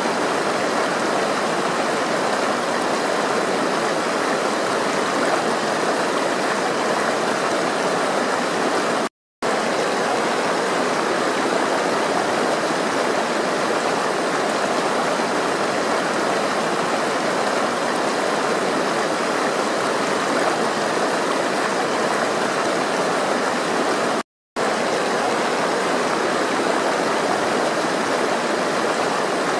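Flowing water, a steady rushing stream sound, that cuts out to silence for a moment twice, about nine seconds in and again about twenty-four seconds in.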